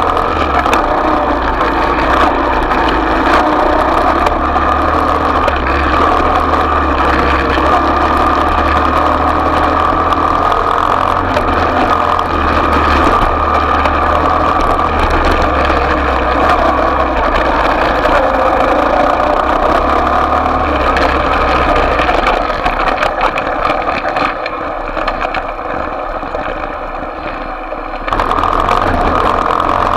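Small off-road motorcycle engine running steadily. It fades for a few seconds about three quarters of the way through, then comes back loud near the end.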